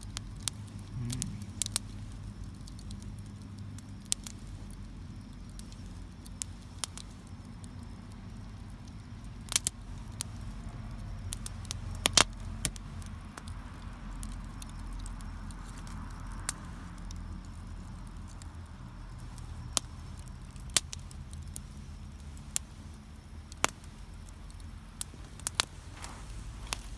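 Wood fire in a campfire pit crackling, with sharp pops scattered throughout over a low steady rumble.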